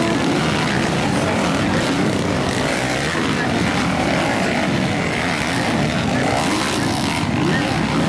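Motocross dirt bike engines running hard, a dense, steady engine noise whose pitch wavers up and down as the bikes rev.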